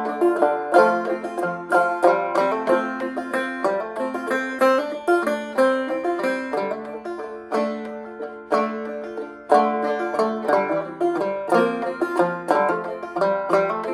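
Solo banjo played clawhammer style: a steady run of plucked notes ringing between verses, with no voice.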